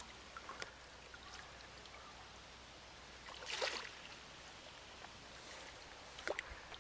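Flowing river water, faint and steady, with a short splash about halfway through and a sharper splash near the end.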